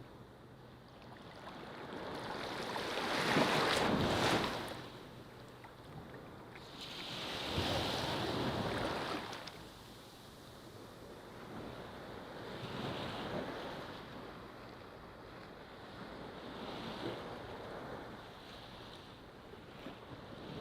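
Ocean waves breaking on a beach: a big wave washes in about three to four seconds in, another around eight seconds, then smaller, softer swells of surf.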